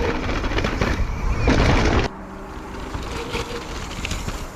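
A mountain bike's tyres rolling and skidding over loose, dry dirt as a rider passes and jumps a gap, over a low rumble. The tyre noise grows louder about one and a half seconds in, then drops off abruptly at about two seconds to a quieter hiss with a few light clicks.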